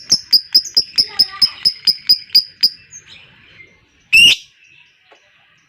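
Lovebird giving its 'ngekek' chatter, a fast even run of sharp chirps, about five a second, that stops about two and a half seconds in. One loud harsh call follows about a second and a half later.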